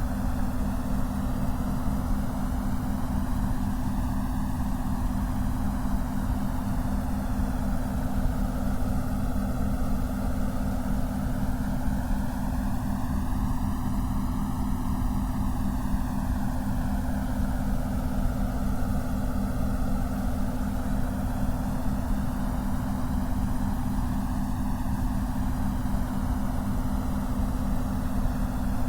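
Synthesized white noise for focus and meditation, sweeping slowly in a whooshing, phaser-like way every few seconds, over a steady low tone that flutters rapidly.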